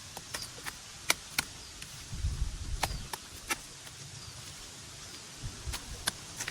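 Sharp, irregular knocks and cracks of wood being worked by hand, about nine strikes spread over the few seconds, with low thudding handling noise between them.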